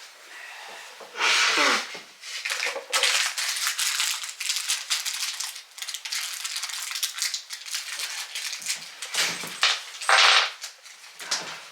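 Irregular clicks, rattles and scrapes of door hardware and tools being handled, with louder bursts about a second in and again near the end.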